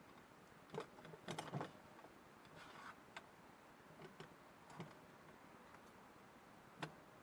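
A few light clicks and knocks over a near-silent background: several close together about a second in, then scattered single ones, and one last sharp click near the end.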